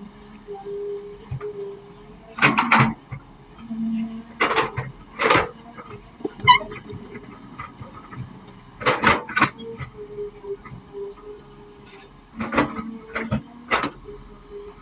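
Excavator at work: a steady engine and hydraulic hum, broken about seven times by short, loud scraping and clanking bursts from the bucket working the earth.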